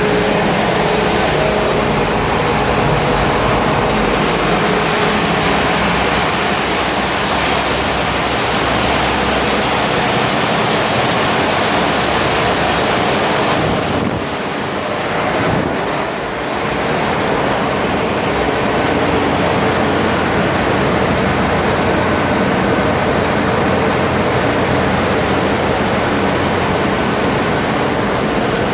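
Loud, steady din of a bulk carrier's engine-room machinery, an even rushing noise across all pitches. It dips briefly twice about halfway through.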